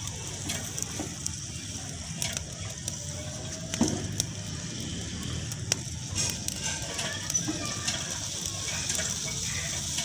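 Potato slices frying in oil in a karahi over a wood fire: a steady sizzle with scattered, irregular crackles and pops.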